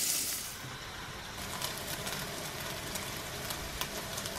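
Shrimp frying in oil in a nonstick pan. The loud sizzle drops off within the first second to a quieter sizzle with a few faint crackles.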